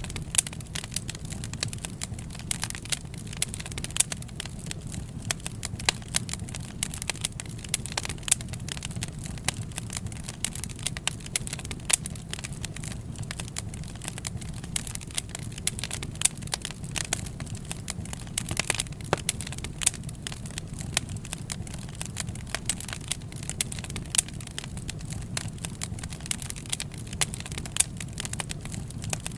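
Wood fire burning, crackling steadily with frequent irregular sharp pops over a low, even rumble.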